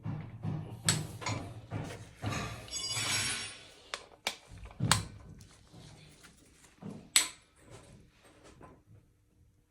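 Metal engine parts and hand tools being handled: scattered knocks and clanks, the sharpest about a second in, near five seconds and near seven, with a rasping, ringing scrape of metal around three seconds.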